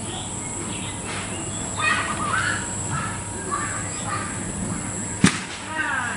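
Outdoor birdsong with several birds calling, among them a zebra dove's quick trilled cooing. A single sharp click about five seconds in.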